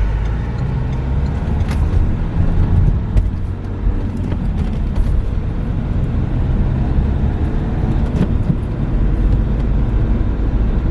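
Renault Megane III driving at a steady pace: a low, even engine and road rumble, with a few faint clicks.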